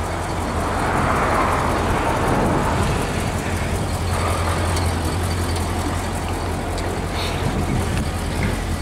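Cadillac 500-cubic-inch V8 idling with a steady low hum.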